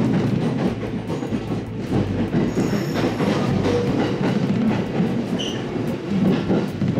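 Steady rumble and rail clatter of an electric commuter train, heard from inside the car as it pulls into a station, with a few brief high squeals.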